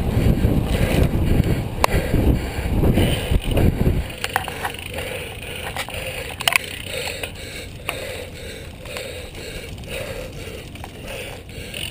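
Wind rushing over the microphone of a road bike at racing speed, dropping off suddenly about four seconds in. After that the bike is coasting, with its rear freewheel hub ticking and scattered clicks over the tyre noise.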